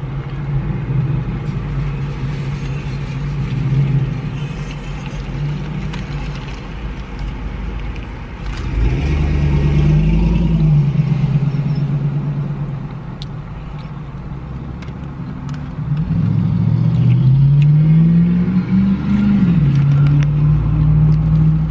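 A parked Jeep's engine idling steadily, its pitch rising and falling back twice, with small clicks over it.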